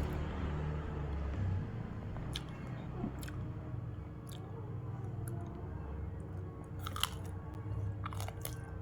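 Close-miked chewing of raw vegetables with sambal, with short crunches and wet mouth clicks scattered through it.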